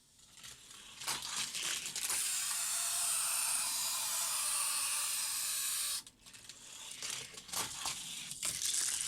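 Hot Wheels die-cast car running down a plastic track: a few clicks, then a steady rolling whir for about four seconds that cuts off suddenly, followed by scattered clatters and clicks as it goes through the stunts and jump.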